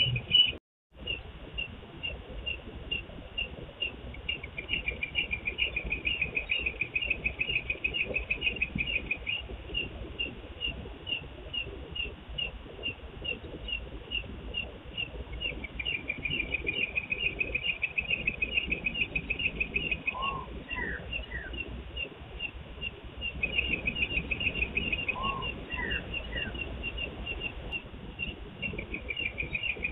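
Insects chirping outdoors in a steady, fast pulsing rhythm that swells and eases at times, with two brief higher calls about two thirds of the way through and again a few seconds later.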